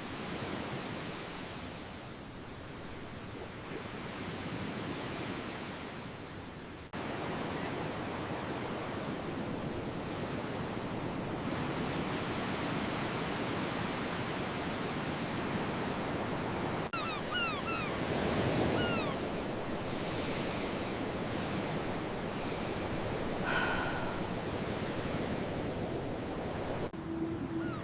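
Steady rush of surf and wind, changing abruptly about 7 and 17 seconds in. A few short, high chirps come a little past the middle.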